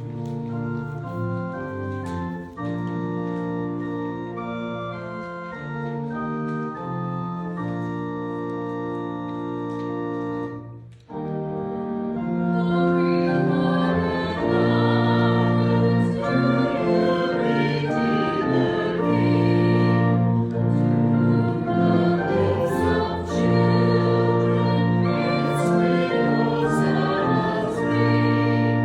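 Church organ playing a hymn introduction in held chords; after a short break about eleven seconds in, the congregation starts singing the hymn with the organ.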